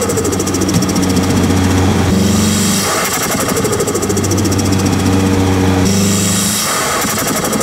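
Nissan Silvia S15's turbocharged SR20 four-cylinder engine, heard from a microphone at the turbo, running at a steady low engine speed. The note shifts twice, about two seconds in and again near six seconds.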